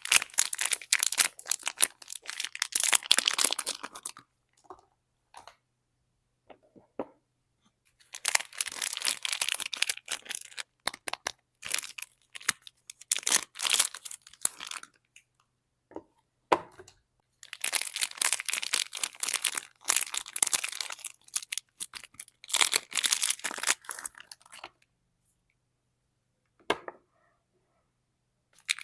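Soap bars being unwrapped: paper and plastic wrapping tearing and crinkling in four bursts of a few seconds each, with quiet pauses and a few single clicks between them.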